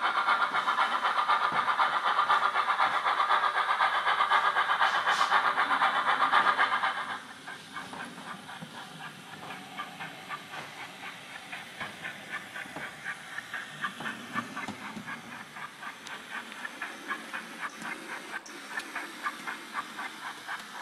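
Factory-fitted sound decoder of an OO gauge Rapido Hunslet 16in 0-6-0ST model playing steam-exhaust chuffs through its small speaker. The chuffing is loud and rapid at first, then drops suddenly about seven seconds in to quieter, evenly spaced chuffs.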